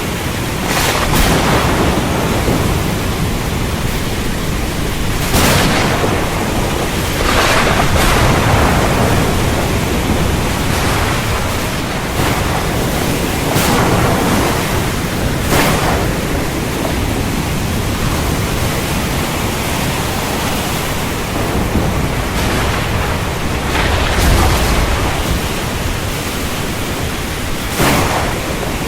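Heavy rain falling steadily, with several short swells of thunder and a deep low rumble of thunder about three-quarters of the way through.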